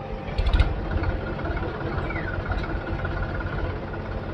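Heavy machine's diesel engine running steadily, with a brief burst of metallic knocks about half a second in.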